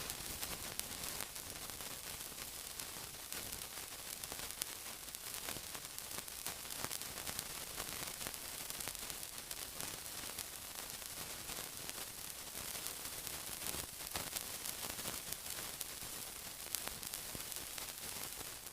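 Steady sizzling hiss, crackling with many tiny pops, fading out at the very end.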